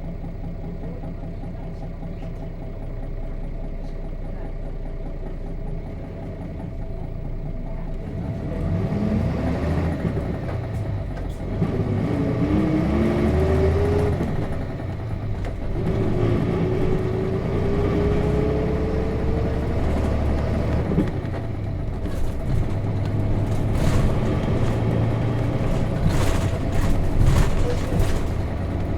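Nissan Diesel KC-RM211GSN bus's FE6 six-cylinder diesel engine heard from inside the bus: idling at first, then pulling away. The engine pitch rises three times, with a drop between each climb at a manual gear change. Rattles and knocks follow near the end.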